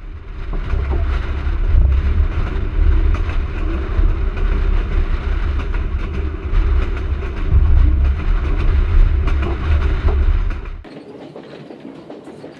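Andean Explorer train running along the track, heard from outside the carriage: a loud, steady low rumble with faint scattered clicks. About eleven seconds in it cuts to the much quieter hum inside a carriage.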